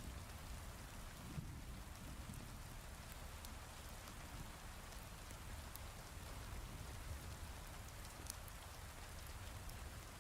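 Heavy rain falling steadily, with a constant low rumble underneath and a few faint sharp crackles scattered through it.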